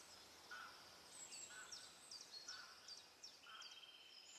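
Faint birdsong from a few birds: a short note repeated about once a second, quick chirps sliding down in pitch, and a trill that starts about three seconds in.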